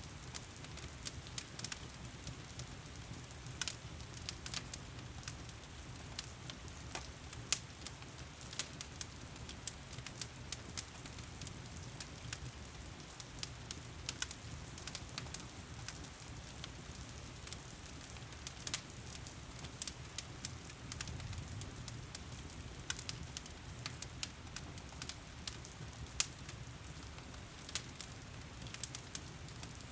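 Wood fire crackling in a fireplace, with frequent sharp pops and snaps over a steady hiss and low rumble of heavy rain.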